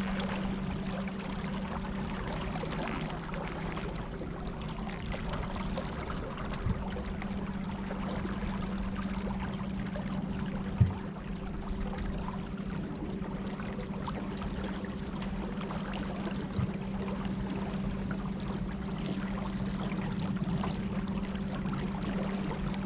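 Battery-powered electric boat motor humming steadily at one pitch, with water trickling and splashing around the craft. A single sharp knock about eleven seconds in.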